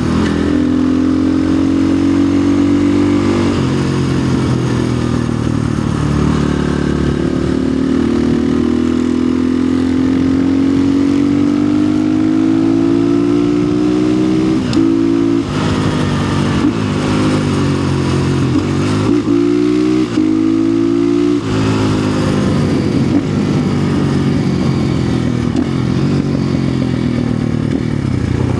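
2025 Orion RXB250XL dirt bike's single-cylinder four-stroke engine pulling under throttle while riding. Its pitch climbs slowly and drops sharply several times, around three seconds in, midway and about two-thirds through, with a few quicker rises and falls in between.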